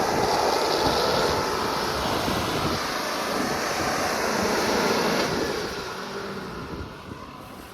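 2024 GMC Sierra 2500 AT4X pickup's engine revving hard with its tyres spinning in mud, the truck stuck; the noise eases off about two seconds before the end.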